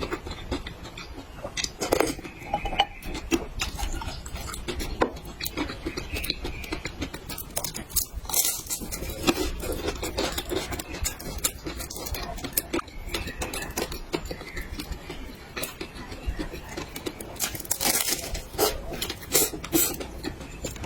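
Close-miked eating: utensils clicking and scraping against dishes, with chewing, in many irregular taps.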